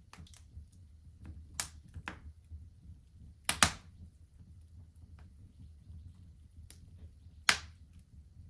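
Wood fire crackling in a fireplace: scattered sharp pops, the loudest about three and a half and seven and a half seconds in, over a low steady rumble.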